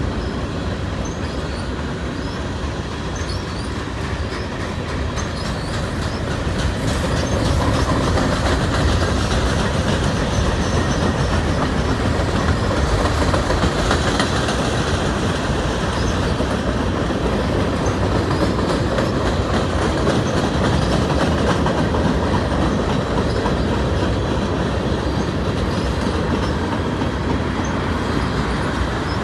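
CN freight train's cars rolling past on the rails: a steady rumble with wheels clattering over rail joints and faint squeals from the wheels, growing a little louder about seven seconds in.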